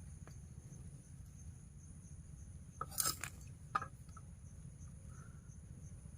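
Insects trilling steadily in two high, unbroken tones, over a low rumble. About three seconds in come a short cluster of sharp knocks or clinks, then one more click a moment later.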